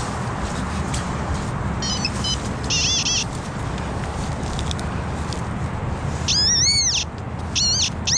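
XP Deus metal detector giving pitched target tones: two short tones early on, then longer warbling tones that rise and fall as the coil sweeps over a target, over a steady low rumble.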